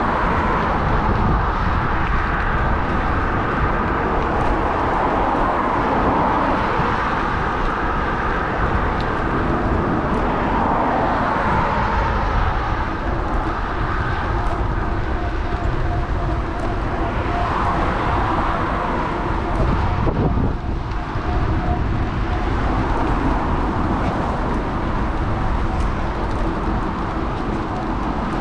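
Steady wind rush and road noise on a GoPro's microphone while riding an electric bike, with road traffic running alongside.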